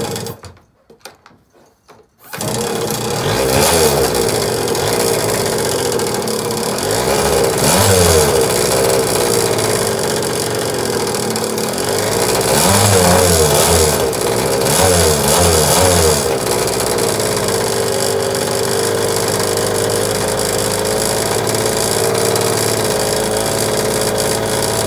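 Yamaha PW80 pit bike's small two-stroke single-cylinder engine catching on the second kick about two seconds in, then running on, likely from cold. The throttle is blipped briefly around eight seconds and a few more times later.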